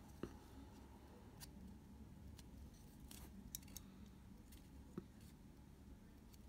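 Near silence with a few faint, scattered clicks and taps of small tools handling camera parts.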